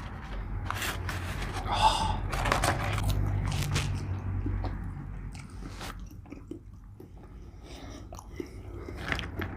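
Close-miked chewing and biting of McDonald's french fries, with a string of soft crunches. There is a short hum of voice about two seconds in.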